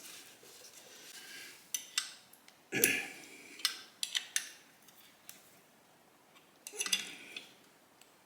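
Metal parts and hand tools clinking and clattering during motorcycle reassembly: a string of sharp knocks, the loudest a heavier clank about three seconds in, with another cluster of clinks near the end.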